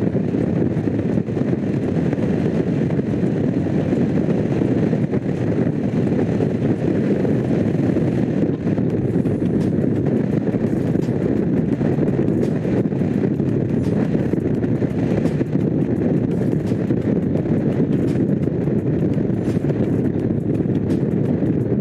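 Honda CX500's liquid-cooled V-twin engine running steadily while riding, mixed with wind rush on the microphone.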